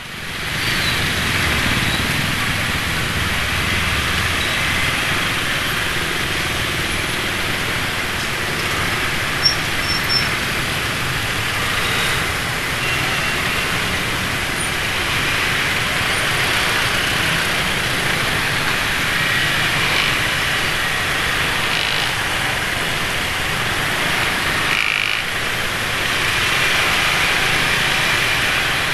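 Road traffic: motorcycle engines running close by over steady road noise.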